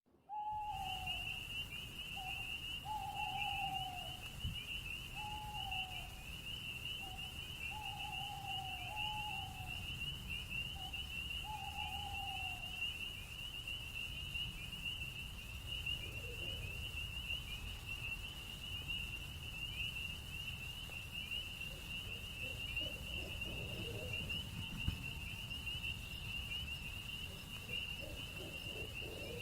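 Night-time insect chorus, crickets trilling in a steady, fast-pulsing high drone. Over the first twelve seconds or so a string of short, falling whistled calls sounds above a low rumble.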